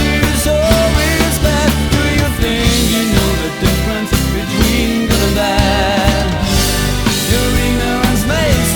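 Pop-rock band recording playing, with bass, drums and a lead melody that wavers and bends in pitch, in a passage with no clear sung words.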